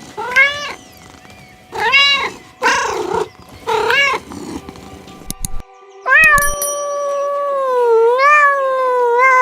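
Domestic cat meowing four times in short rising-and-falling calls. After a short break comes one long, drawn-out, wavering call lasting several seconds.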